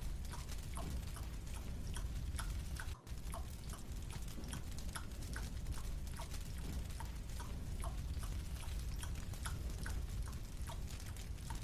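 Marshmallow being chewed: soft, irregular clicking chewing sounds, several a second, over a steady low hum, with a brief dropout about three seconds in.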